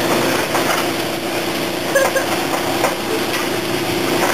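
Car wash running: a steady hiss of spraying water over a steady machine hum, with a few faint knocks.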